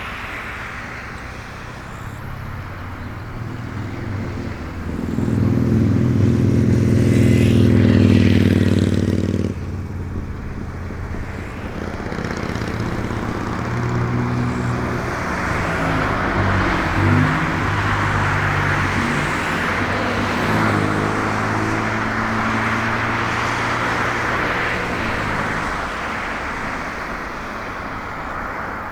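Freight train hauled by an EF65 electric locomotive passing. A loud hum of several pitches builds and then cuts off sharply about a third of the way in. It is followed by the long steady rolling noise of the wagons' wheels on the rails.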